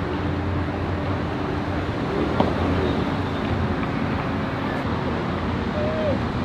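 An engine running steadily at idle under outdoor noise, with a single sharp knock about two and a half seconds in.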